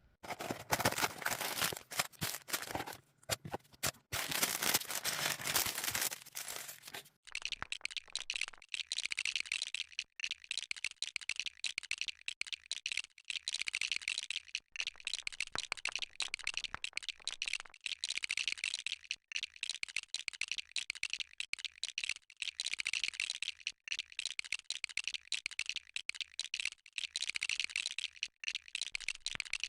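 Plastic Lego pieces rattling and clicking as they are sorted and pressed together. A fuller, louder rustling rattle fills the first several seconds, then gives way to a steady stream of small, quick clicks.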